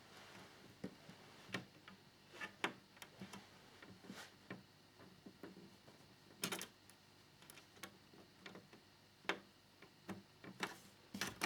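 Scattered light clicks and taps of small parts being handled while screwing a plastic fairing panel onto a scale model motorcycle, with one sharper click about six and a half seconds in.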